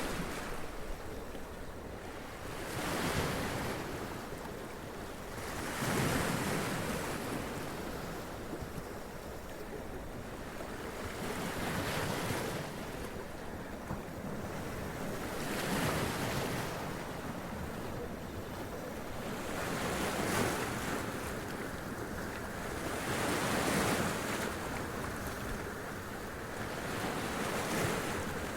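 Sea waves breaking and splashing against rocks, a surge of spray about every three to four seconds over a steady wash of surf. There is some wind noise on the microphone.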